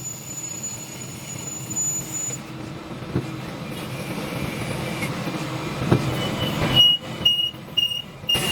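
CNC turning-and-milling lathe running: a steady mechanical hum with two sharp knocks, and a high tone sounding in short repeats near the end.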